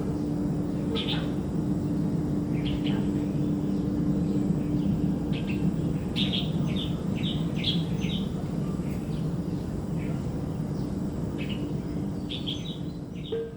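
Small birds chirping, short high chirps coming singly and in quick runs, over a steady low hum; the sound fades out near the end.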